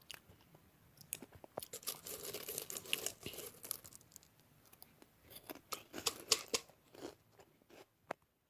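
Irregular crisp crunches and crackles, thickest around two to three seconds in and again around six seconds in, then thinning out near the end.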